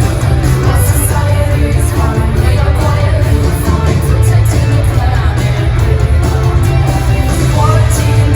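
Loud live pop music with singing and a heavy bass, heard from among the concert crowd.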